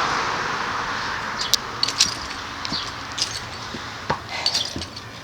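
Passing road-traffic noise fading away over the first couple of seconds, then a scattered handful of light clicks and rustles.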